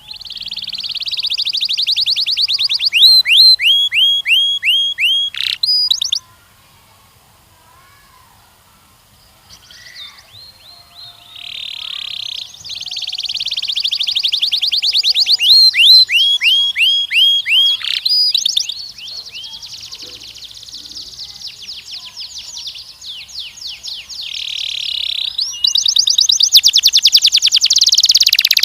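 Canary singing: long rolling trills of rapidly repeated notes, each run at a different pitch, some of them quick downward-slurred notes. The song breaks off for about four seconds around six seconds in, then runs on unbroken.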